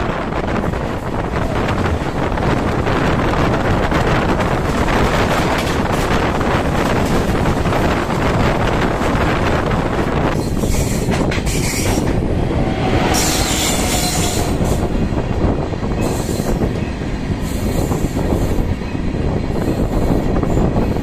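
Tamil Nadu Express running along the track: a steady rumble of wheels on rails, with spells of high-pitched wheel squeal about halfway through.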